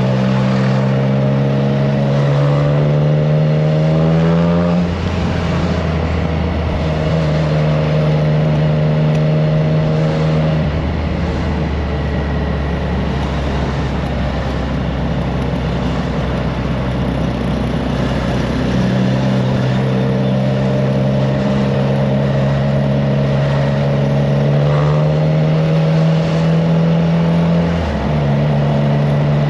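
Triumph Trident 660's three-cylinder engine through an aftermarket FireTong exhaust, under way: it pulls with rising pitch, drops sharply in an upshift about five seconds in, runs steadily, then settles to a lower rumble for several seconds before pulling up again with another gear change near the end. Wind on the microphone.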